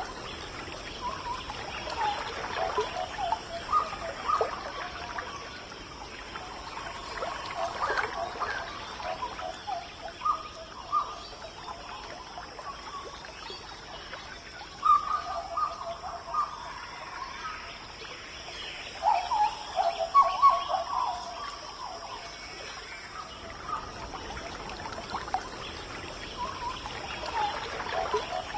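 Rainforest birds calling in bouts of quick repeated notes, loudest about halfway through and again a few seconds later, over a steady high-pitched tone.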